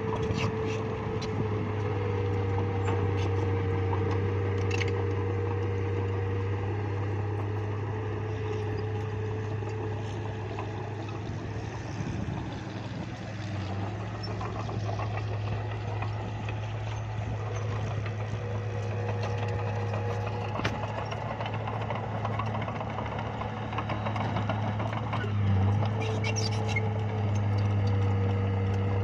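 Bulldozer's diesel engine running steadily at a constant pitch, with a few brief sharp clicks scattered through it.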